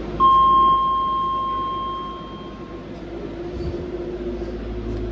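A single electronic chime on a DLR B92 train, one clear tone held for about two and a half seconds and fading out, over the steady hum of the train standing at the platform.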